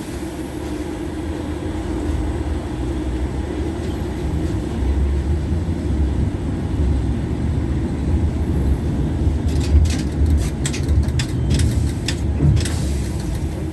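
LVS-86K articulated tram running, heard from inside the passenger saloon: a steady low rumble of traction motors and wheels on rails that grows after a few seconds as the tram picks up speed. In the second half comes a series of sharp clicks and knocks.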